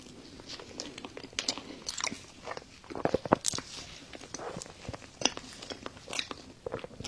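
A person eating chocolate lava cake: irregular chewing and mouth clicks, with a few sharper smacks scattered through.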